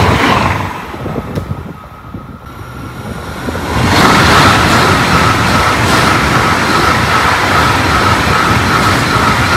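Eurostar high-speed trains passing on the line. The first fades away in the opening second; then, about four seconds in, a Class 374 (e320) passes close by at speed: a loud, steady rush of wheels and air with a high whine running through it.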